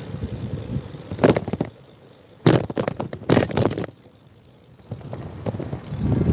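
Motorcycle ride: a low engine rumble with wind noise on the microphone, broken by loud gusts and two short quieter gaps.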